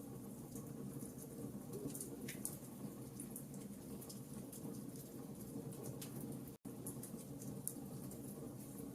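Wood fire in a fireplace crackling, with many small sharp pops over a steady low rumble of the flames. The sound drops out for an instant about two-thirds of the way through.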